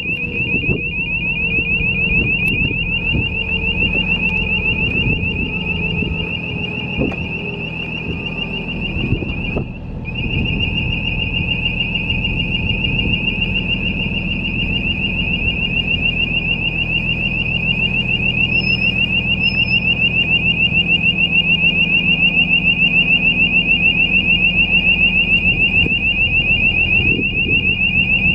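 A high-pitched electronic warning buzzer sounds continuously, with a fast pulsing warble and a short break about ten seconds in, over the steady running of the light tower's Kubota three-cylinder diesel engine. A few knocks come in the first several seconds.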